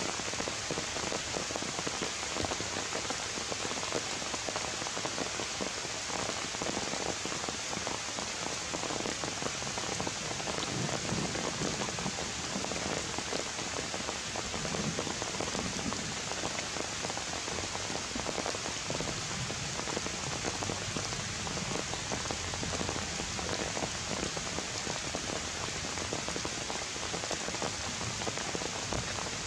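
Steady rain falling on foliage and ground, an even hiss of many drops.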